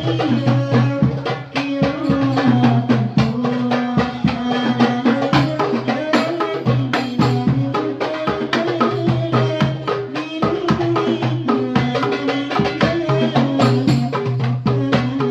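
Banjari ensemble of darbuka hand drums playing fast, dense rhythms over a held melodic line that steps from note to note.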